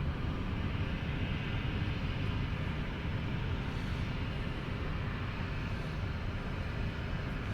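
Steady low rumble of jet airliner engines, with no clear rise or fall.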